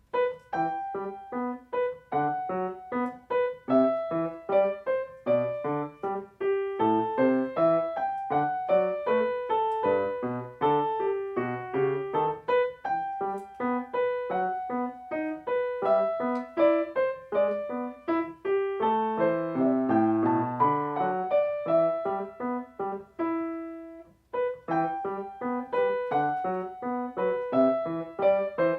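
Solo piano playing a quick tune of short notes over a moving bass line, with one held note and a brief pause about 23 seconds in before the playing resumes.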